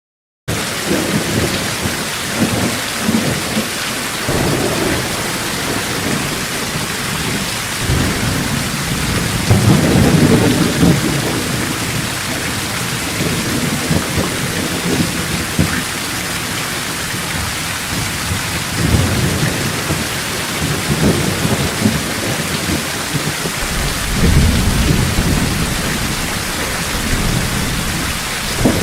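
Steady heavy rain with low rolling thunder that swells several times, loudest about ten seconds in.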